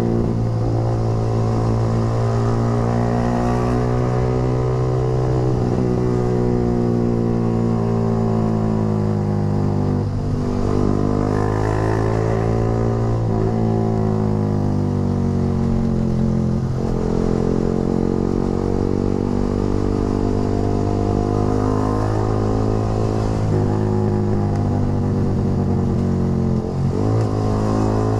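Yamaha R15 V3's single-cylinder engine running through a short Proliner racing exhaust while the bike is ridden. The revs climb slowly, with brief drops four times.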